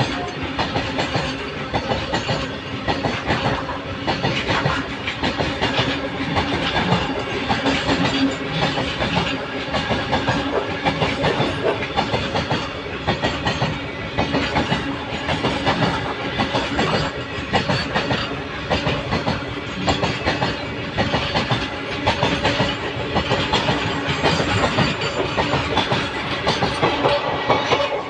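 Train running on the rails, wheels clattering in a dense, continuous stream of clicks over a steady rumble with a faint hum.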